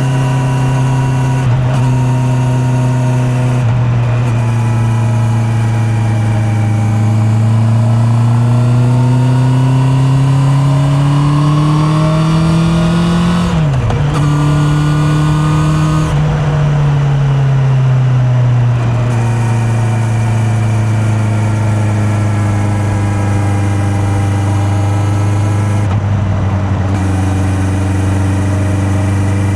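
Honda CB650R's inline-four engine running steadily, then revving up for several seconds with a brief drop in pitch about halfway through. It then eases off and settles back into a steady cruise, heard muffled from a mic in the rider's back pocket.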